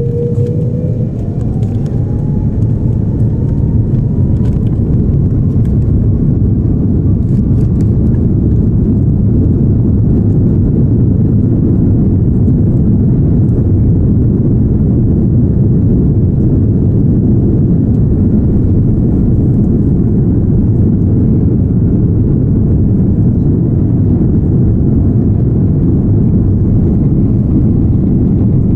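Airliner jet engines spooling up to takeoff thrust: a faint whine rises in pitch over the first few seconds, under a loud, steady rumble that holds through the takeoff run.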